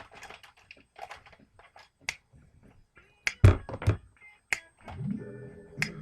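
Small clicks and taps of objects being handled, with two heavy thumps a little past the middle; near the end, music with guitar and finger snaps starts.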